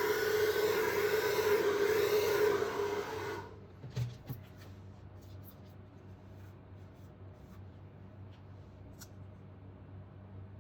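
Electric hair dryer blowing with a steady whine, switched off about three and a half seconds in. After that come faint small clicks and rubbing.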